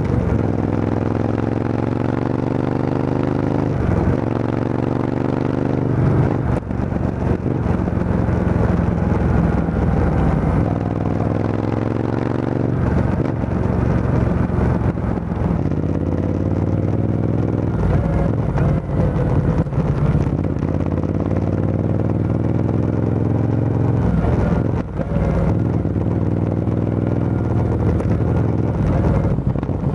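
Motorcycle with an aftermarket Arrow full exhaust system, run without its dB killer, accelerating on the road. The engine note climbs and drops back several times as it shifts up through the gears.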